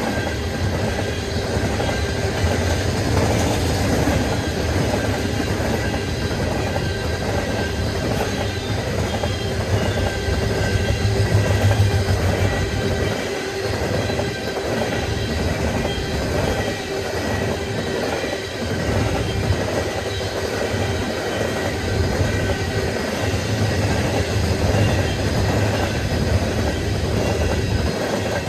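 Freight train cars rolling past in a steady rumble, with the clatter of wheels over the rail joints and a faint high squeal of steel wheels on the rail.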